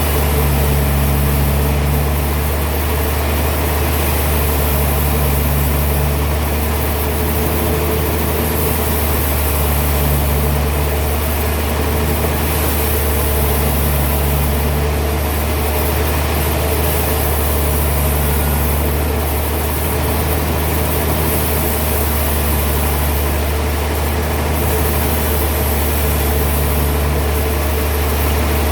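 Heavy sawmill machinery running steadily with a deep, constant hum and a slight pulse that recurs every two to three seconds.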